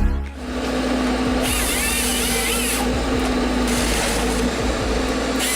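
Forestry harvester cutting head at work: a steady machine hum with two bursts of hissing noise, each a second or two long, and a brief wavering whine between them.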